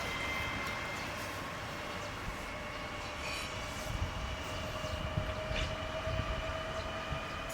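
An X50 Regina electric multiple unit running, with steady whining tones over rumbling wheel and rail noise.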